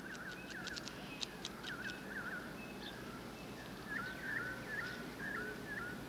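A small bird calling in short, repeated hooked chirps in quick runs of three or four, with brief gaps between runs. A few faint, sharp high ticks come in the first second or so.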